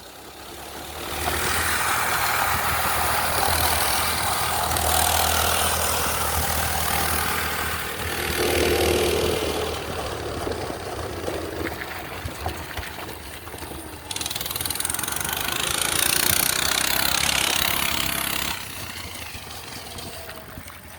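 A minibike's small engine running steadily, with a broad rushing noise over a low hum. The sound drops away sharply near the end.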